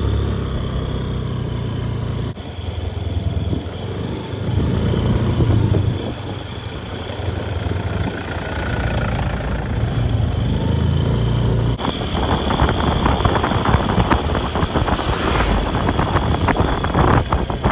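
Motorbike engine running while riding, its low rumble rising and falling. From about twelve seconds in, wind buffets the microphone.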